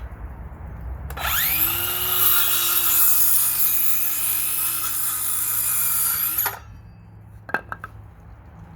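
Power saw spinning up about a second in and running steadily through a cut for about five seconds, then cutting off abruptly. A few light clicks follow near the end.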